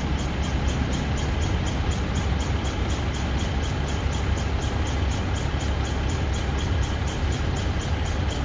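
Freight train of tank wagons rolling past and drawing away, a steady low rumble of wheels on rail. Insects chirp steadily over it, a high pulse about four times a second.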